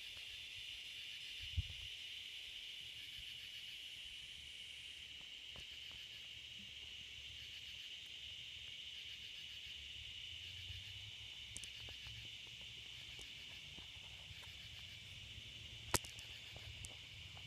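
Faint, steady high-pitched insect chorus, with a low knock early on and a single sharp click about a second and a half before the end.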